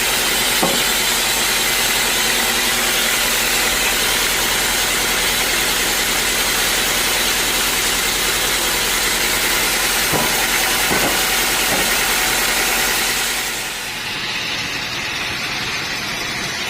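Band sawmill's engine running steadily with a strong hiss over it. About fourteen seconds in, the hiss drops away and the level falls, leaving a lower steady hum.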